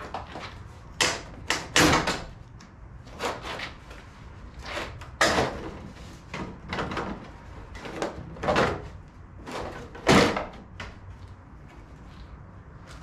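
Plastic push clips and the grille of a 2009 Jeep Wrangler JK being pried and pulled off by hand: an irregular run of sharp clicks, knocks and clatters, the loudest about a second, two seconds, five seconds and ten seconds in.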